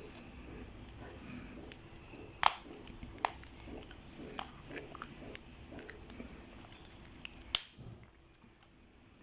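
Close-miked chewing and eating, with wet mouth sounds and several sharp clicks spread through it; it goes quieter near the end.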